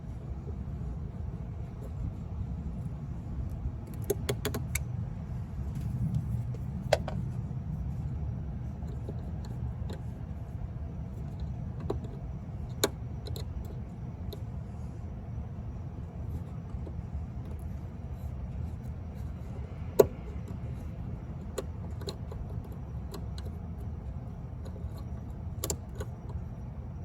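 Scattered metallic clicks and clinks of hand tools and parts being handled over a steady low rumble, the loudest a single sharp click about twenty seconds in.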